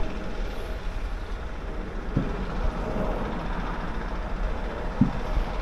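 Steady rushing noise with a low rumble from a bicycle on the move: wind on the microphone and tyres on the road, with a couple of short low knocks.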